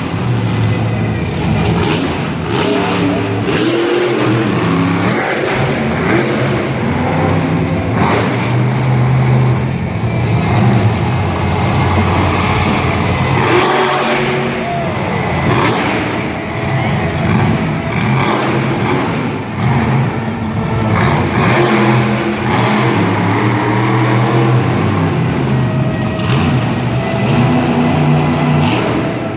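Monster truck engine revving hard, rising and falling in pitch again and again, loud throughout, with a few sharp knocks.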